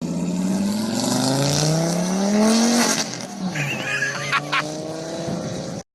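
Volvo S60 2-litre five-cylinder engine through a catless, mufflerless straight-through exhaust, accelerating hard. The pitch climbs, drops at a gear change about three seconds in, then climbs again, with a couple of sharp pops, and the sound cuts off abruptly near the end.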